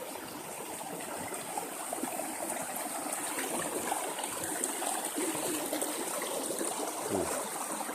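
River water flowing and babbling over rocks, a steady rushing noise.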